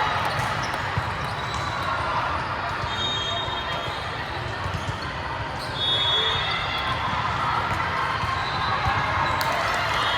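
Echoing gymnasium din: volleyballs being hit and bouncing on the court floor, over a general hubbub of players' and spectators' voices.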